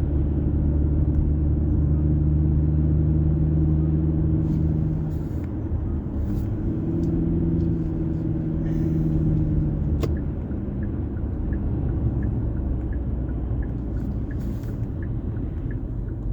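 Steady engine and road rumble heard from inside a moving car's cabin. About ten seconds in a click, then the turn signal starts ticking evenly, roughly three ticks every two seconds, for a left turn.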